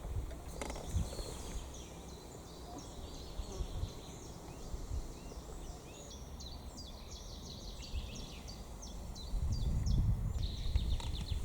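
Small birds singing: a quick series of short high chirps and twitters. A low rumble comes in near the end.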